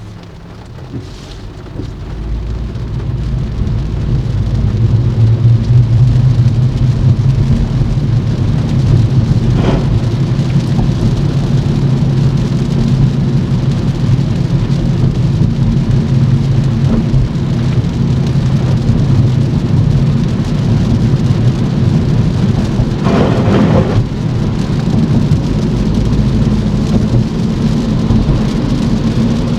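Steady heavy rain with the low rumble of a car driving on a wet road. The rumble builds over the first few seconds and then holds. Two short louder bursts come through, about ten seconds in and again past twenty seconds.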